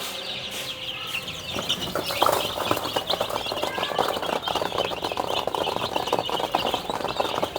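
Chicks peeping continuously around their feed, joined about two seconds in by a dense patter of small clicks.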